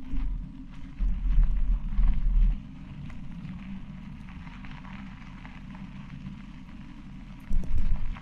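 Riding noise on a dirt bush track: a steady low hum with light crackle from the tyres on the gravel. Wind buffets the action camera's microphone in loud low gusts at the start, for about a second and a half from about a second in, and again near the end.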